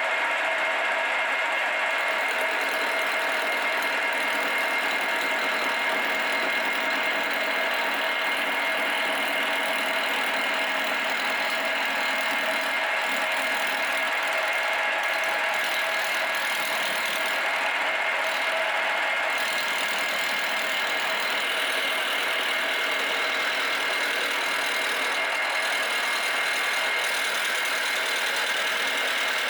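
Electric power tool running steadily, a constant machine noise with a steady high whine, while metal is worked.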